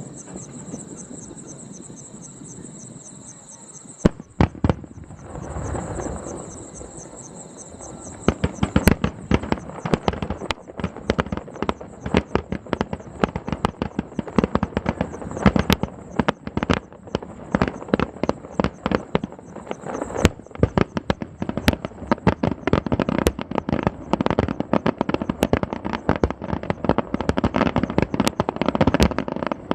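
Fireworks display: a few booms about four seconds in, then from about eight seconds a dense barrage of rapid bangs and crackles. Insects trill steadily in the first few seconds before the barrage.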